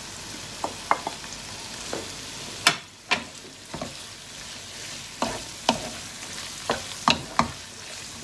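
Chicken pieces frying in masala in a nonstick pan, sizzling steadily while a wooden spatula stirs and scrapes them, knocking sharply against the pan about ten times.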